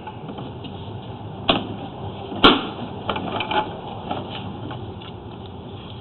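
Scattered clicks and knocks, with a sharp knock about two and a half seconds in and a softer one a second before it.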